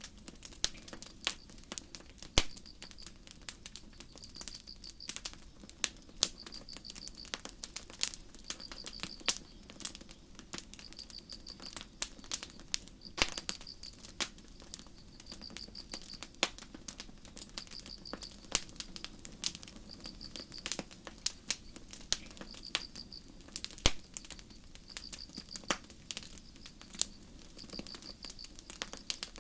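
Campfire crackling with sharp, irregular pops over a soft low burn, and crickets chirping in short high trills that repeat every second or two.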